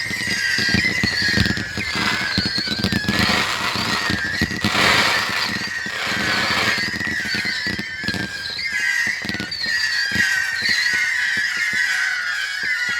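Consumer fireworks going off in a dense barrage: rapid bangs and crackles, with stretches of crackling hiss, and a high wavering whistle running through.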